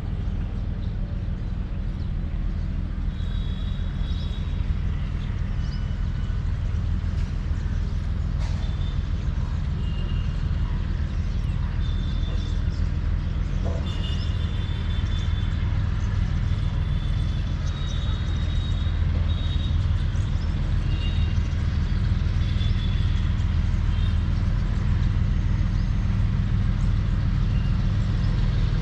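WDG4G diesel-electric locomotive's EMD two-stroke engine running under load as it hauls a freight train and picks up speed, a steady low rumble that grows a little louder toward the end. Brief high-pitched tones come and go over it.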